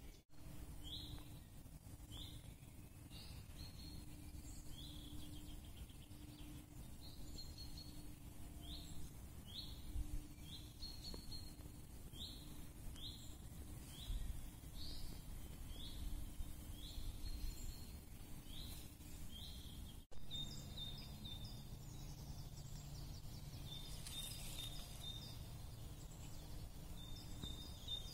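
Woodland ambience with a small bird calling over and over in short, high, rising chirps, about one or two a second. After a sudden break about two-thirds of the way through, a low steady hum sits under further high bird notes.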